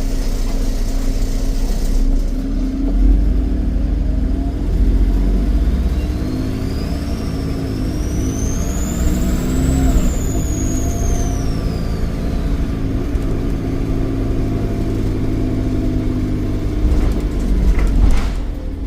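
Volvo D7E 7.1-litre diesel engine of a Volvo B7RLE bus under way, with its turbocharger whistle rising in pitch from about six seconds in, peaking around ten seconds, then falling away. A few sharp knocks come near the end.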